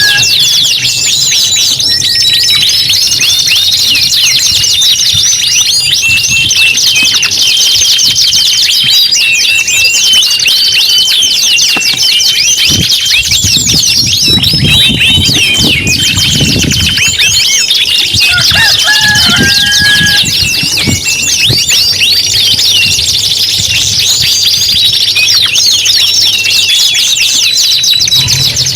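Several canaries singing at once, a loud, unbroken stream of rapid trills and rolling song.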